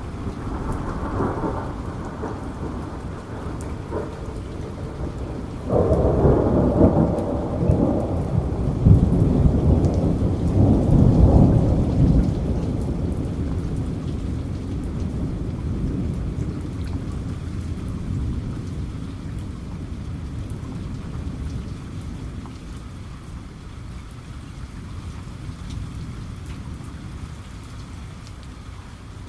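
Heavy rain falling steadily under a peal of thunder: a low rumble at the start, a sharper clap about six seconds in, loudest a few seconds later, then the thunder rumbling slowly away.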